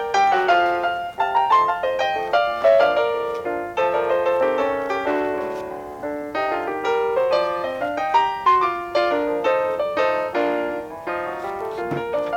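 Background piano music: a quick run of notes and chords.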